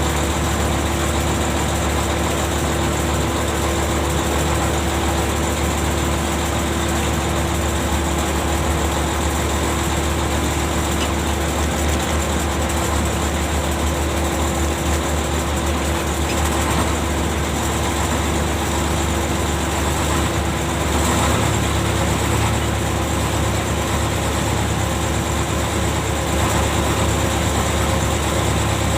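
Ship's engine machinery running steadily: a low drone with a steady hum over it, swelling slightly about two-thirds of the way in and again near the end.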